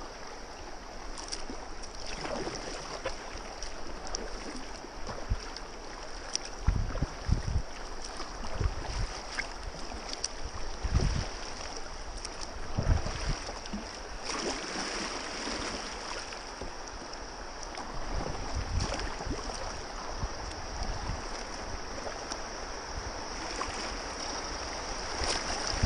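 Rushing river current on a whitewater stretch, a steady hiss of moving water, with a few low thumps on the microphone.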